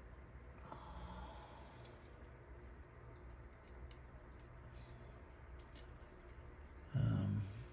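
Faint scattered clicks and ticks of small metal lock parts being handled: the pins, core and housing of a disassembled dimple lock. A short, louder low sound comes near the end.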